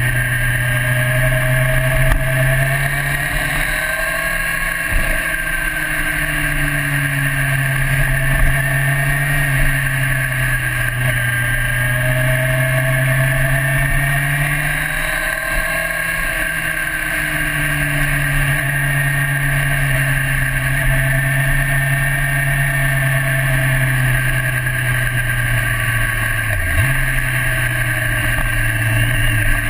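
1998 Honda CBR900RR Fireblade's inline-four engine heard from on board while riding through a series of corners. The revs rise and fall gently with the throttle, with a brief drop in pitch near the end.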